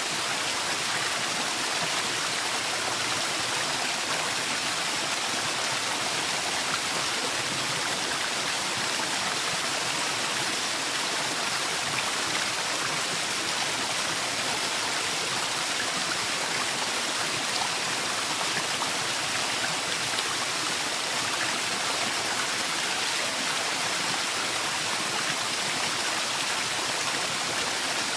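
Forest waterfall: water falling and rushing in a steady hiss, unchanging throughout.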